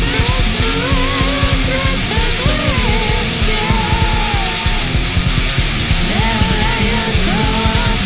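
Loud heavy rock music: electric guitar over fast, dense drumming, with a melody line that bends up and down.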